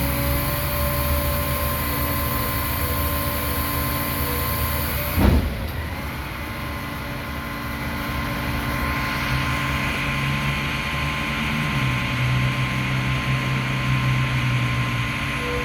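A Mack front-loader garbage truck's diesel engine running steadily, with one loud metallic bang about five seconds in, as the dumpster is handled. From about ten seconds on the engine revs up under hydraulic load while the forks and packer work.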